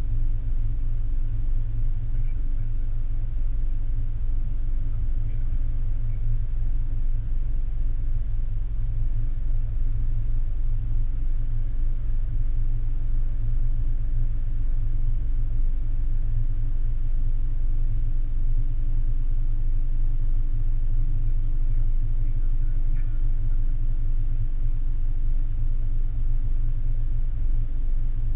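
Steady low rumble and hum of a car idling while stopped, heard muffled through a sealed waterproof camera housing on the windshield.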